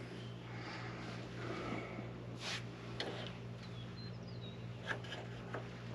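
Scattered clicks and light rustling of hands handling small parts and wiring over a steady low hum, with a couple of short high chirps about four seconds in.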